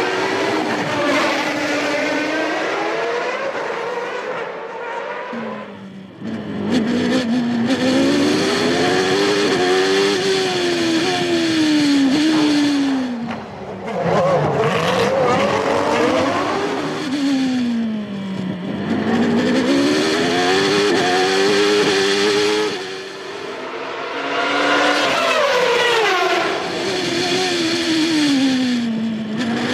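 1993 Formula One race car engines at full race pace, their pitch rising and falling several times as the cars accelerate and then slow for corners.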